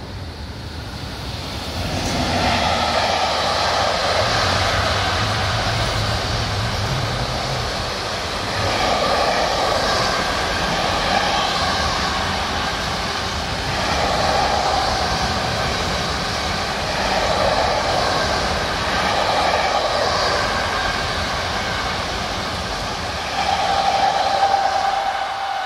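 Long intermodal freight train of pocket wagons carrying semitrailers rolling past at speed: a continuous rumble and clatter of wheels on rail that swells and eases every few seconds as the wagons go by. A steady whine comes in near the end.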